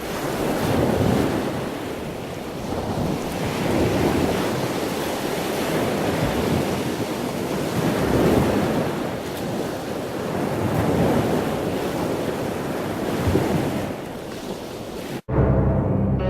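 Ocean surf with wind buffeting the microphone: a rushing noise that swells and eases every three to four seconds, cut off suddenly about a second before the end.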